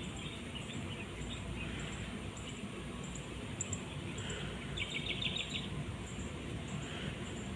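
Steady outdoor background noise, with a short rapid run of high chirps from a small bird about five seconds in.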